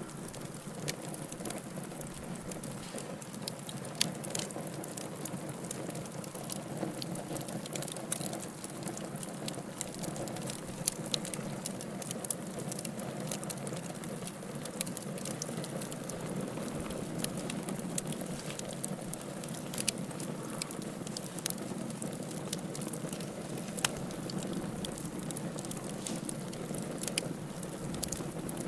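Wood fire burning in a fireplace: a steady low hiss and rumble with irregular crackles and occasional sharper pops.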